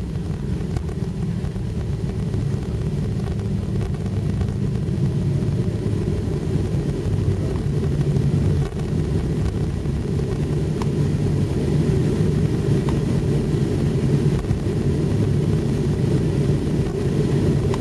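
Airliner cabin noise heard from a passenger seat: a steady low rumble of the jet engines and airflow, growing somewhat louder in the second half.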